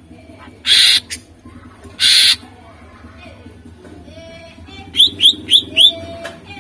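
Cucak ijo (green leafbird) singing. It gives two loud, harsh rasping bursts in the first half, soft low whistles, then a run of four quick rising chirps near the end.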